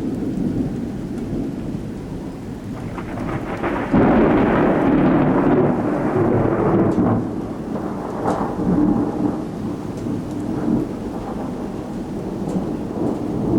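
Thunder rumbling over steady rain. About four seconds in it suddenly swells into a loud, long rumble that lasts a few seconds, then keeps rolling more quietly, with another smaller swell a few seconds later.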